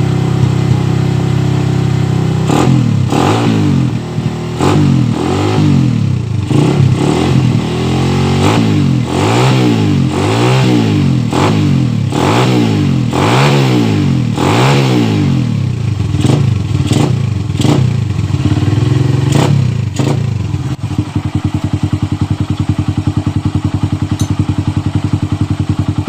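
Suzuki Satria FU 150's single-cylinder four-stroke engine, breathing through a gutted exhaust muffler, idling and then revved in a long series of quick throttle blips. It settles back to a steady pulsing idle about 21 seconds in.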